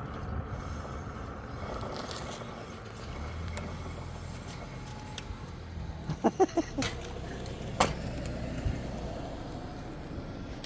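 Steady low rumble of a ride along a park road, with light rattling and scattered clicks. A few short squeaks about six seconds in and a sharp click a little later.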